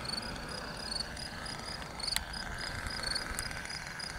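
Crickets chirping: short high chirps repeating evenly, several a second, over a faint steady background. There is a single sharp click about two seconds in.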